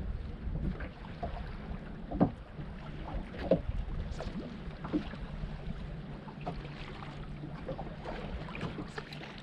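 Open-water ambience on a fishing boat: a steady low hum under wind noise, with scattered light knocks, the sharpest about two seconds in.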